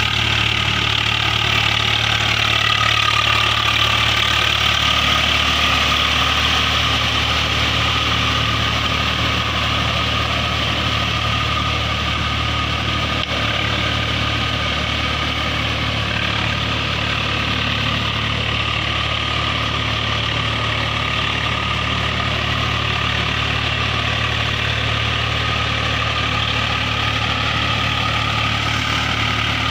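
Diesel engine of a heavy farm vehicle running steadily at a constant speed, with a steady low engine note.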